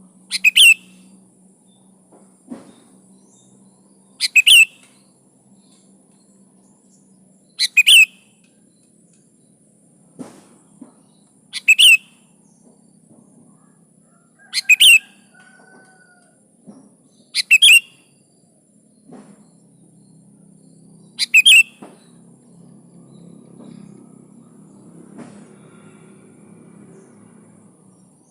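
Sooty-headed bulbul (kutilang) calling: a short, sharp double note repeated seven times, about every three to four seconds, with a pause near the end.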